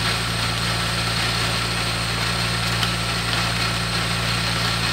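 Chevy engine idling steadily with an even low hum. The engine has a leaking head gasket, which the owner is treating with Blue Devil sealer circulating through the cooling system.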